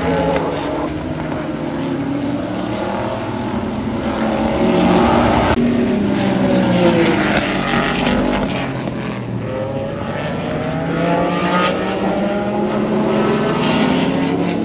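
Several historic 1973–1981 IMSA GT-class race cars passing at speed, overlapping engines rising in pitch as they approach and falling as they go by.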